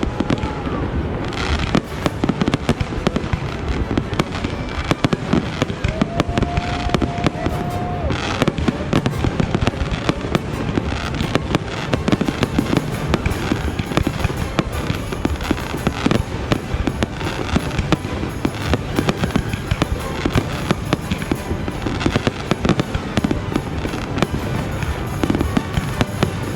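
Fireworks display: a dense, continuous run of bangs and crackles without a break.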